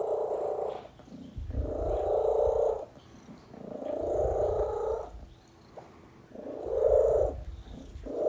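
Domestic cat purring, swelling and fading with each breath about every two and a half seconds.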